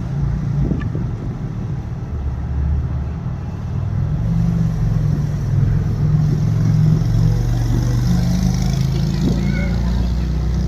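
A car engine running with a low rumble, growing louder about four seconds in.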